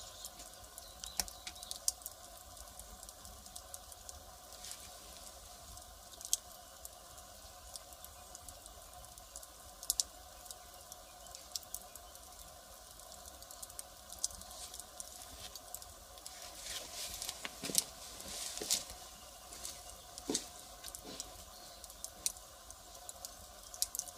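Firewood fire crackling: irregular sharp pops and snaps over a faint steady hiss, with a busier run of crackles about two-thirds of the way through.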